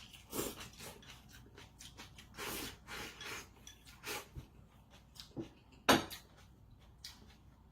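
Eating utensils clicking and scraping against a dish in irregular short strokes, with one sharp clink about six seconds in.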